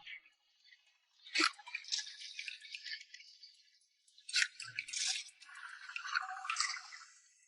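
Hard crab shells rattling and scraping against each other, with several sharp clicks and knocks.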